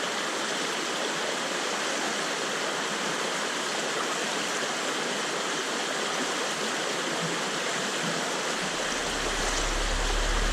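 Steady rush of flowing river water, with a low rumble coming in near the end.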